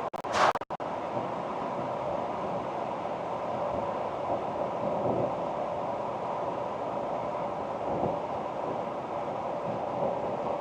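Steady tyre and wind noise from a 2024 Ford Ranger Wildtrak driving at speed, with a brief loud whoosh about half a second in while the audio cuts out for a moment.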